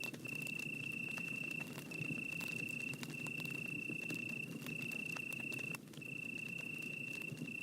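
Campfire crackling with scattered sharp pops, under a steady high-pitched insect trill that breaks off briefly about every second and a half.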